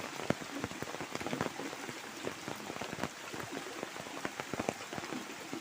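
Steady rain falling, with many separate drops striking surfaces close by.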